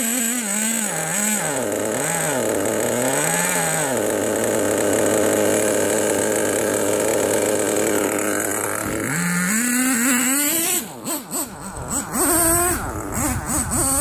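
Dynamite Mach 19 nitro engine of a Traxxas T-Maxx RC truck revving. Its pitch swings up and down three times, holds steady at speed for about five seconds, climbs, stutters briefly a few seconds before the end, then rises again. The carburettor is tuned on the rich side, and an exhaust leak from broken zip ties keeps it from running its best.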